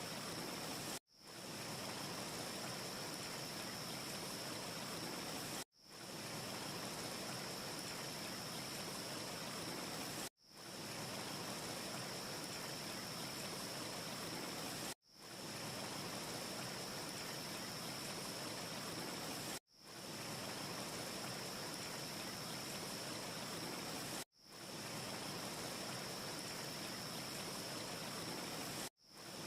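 Steady rushing hiss with a thin high whistle-like edge and no crackle. It cuts out to silence and fades back in about every four and a half seconds, seven times: a short ambience loop repeating.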